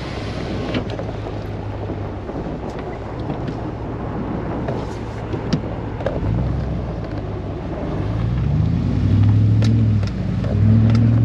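Four-wheel-drive pickup truck driving, heard from inside the cab: a steady engine hum over road noise, then from about halfway through the engine note climbs in pitch a few times and grows louder as the truck accelerates.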